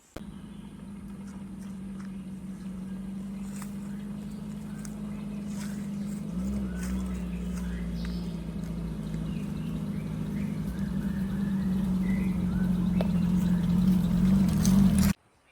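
An engine running steadily and growing louder, its pitch shifting slightly about six seconds in, with faint bird chirps above it; it cuts off suddenly near the end.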